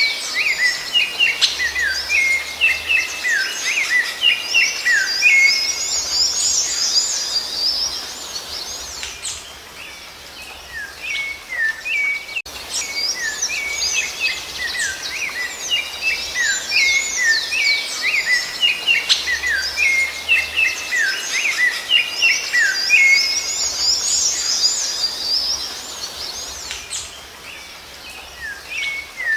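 Songbird singing a rapid, busy run of short chirps and gliding notes over a light background hiss. The song thins out briefly about ten seconds in and again near the end, and the same passage repeats, as in a looped recording.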